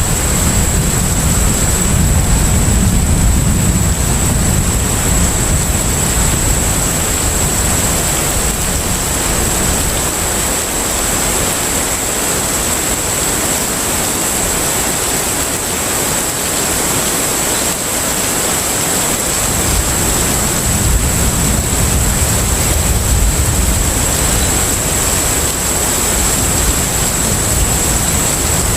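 Container ship underway at sea: a steady rush of water and wind with a low rumble that fades for several seconds in the middle and then comes back, and a thin high tone throughout.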